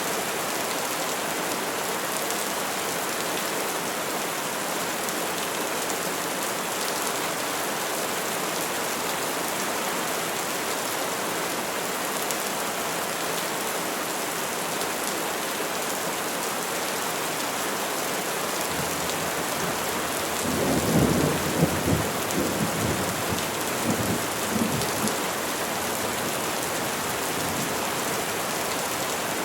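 Steady rain falling on trees, an even hiss. About two-thirds of the way in, a low rumble of thunder swells and rolls for roughly six seconds, then fades back under the rain.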